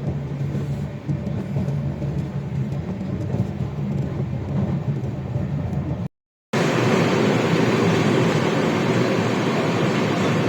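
Steady running noise of a moving passenger train, with a low hum under it. About six seconds in there is a brief silent cut, then a louder, fuller rumble of the train running.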